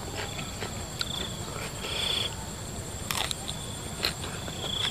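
Crunching and mouth clicks of a person chewing raw vegetables, in irregular sharp crackles, with crickets chirping in short high buzzes behind.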